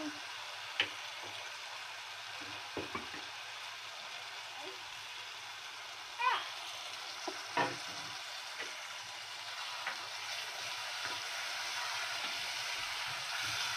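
Onion-tomato masala with potato wedges sizzling steadily in a pot as it is fried down with small splashes of water, a spatula clicking and scraping against the pot now and then. The sizzle thickens a little in the last few seconds, and a brief high squeak comes about six seconds in.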